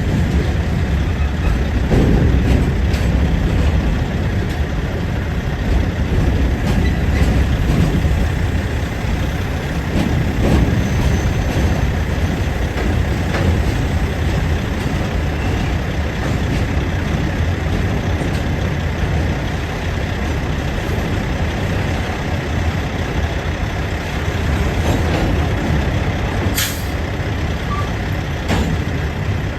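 Wheeling and Lake Erie freight train rolling past: a steady, heavy low rumble, with a short sharp hiss near the end.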